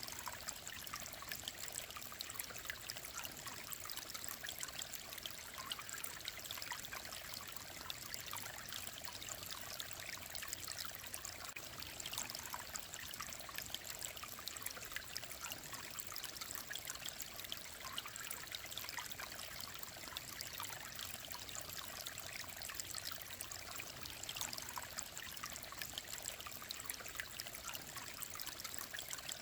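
Mountain stream running steadily: an even rush of water with fine trickling, unchanging throughout.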